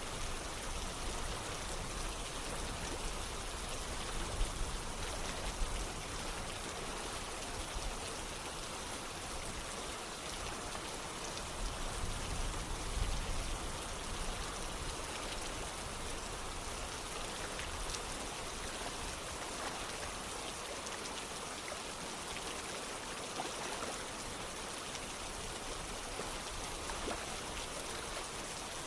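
Rain falling steadily together with running water, a continuous even wash of noise with faint drop ticks and small swells.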